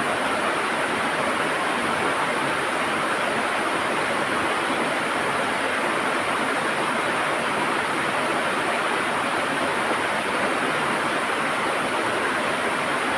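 River water rushing and gurgling in a steady, even flow.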